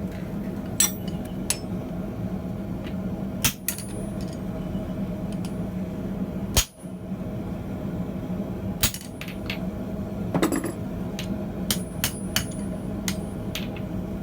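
Irregular hammer blows and ringing metal clinks on an anvil while forging steel tong parts, about a dozen strikes with the hardest one about six and a half seconds in. A steady hum runs underneath.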